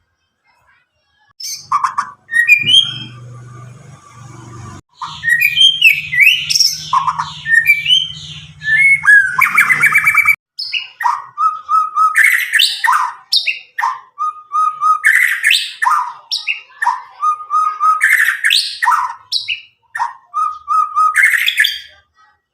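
A young white-rumped shama (murai batu, about nine months old and just out of its spotted juvenile plumage) singing loud, clear whistled phrases. The phrases mix sweeping notes, trills and runs of repeated notes, in bursts that begin a second or so in. A low steady hum sounds underneath through the first half.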